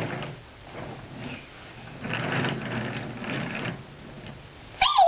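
A toy train's small motor and gears whirring as it runs along its track, growing louder and softer.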